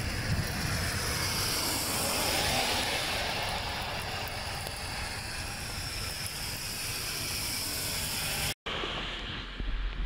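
Heavy rain pouring onto a wet road: a steady, dense hiss. It cuts out for a moment about eight and a half seconds in and comes back quieter.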